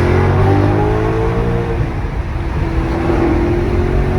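Maserati GranTurismo MC Stradale's 4.7-litre naturally aspirated V8 accelerating hard. The revs climb, drop about two seconds in as it changes up a gear, then build again.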